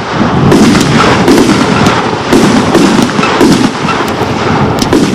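Loud, dense crackling and popping noise, many rapid pops over a rough rushing noise.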